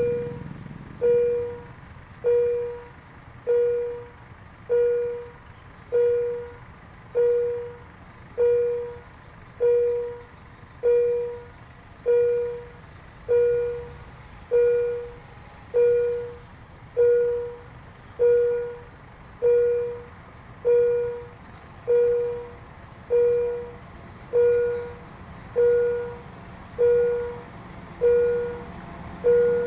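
Railway level-crossing warning bell ringing steadily, one ringing strike about every 1.2 seconds, signalling that a train is approaching.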